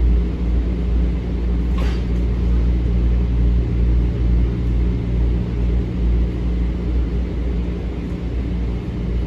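Steady low rumble and hum inside a Metro-North M7 electric train car running between stations, with one short click about two seconds in.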